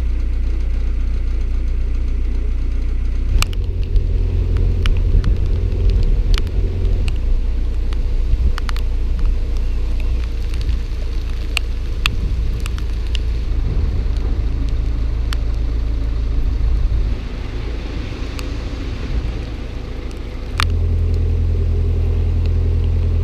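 A narrowboat's engine running steadily with a deep, even hum, with scattered sharp clicks over it for the first half. About seventeen seconds in the engine note drops quieter, and about three seconds later it comes back up to its earlier level.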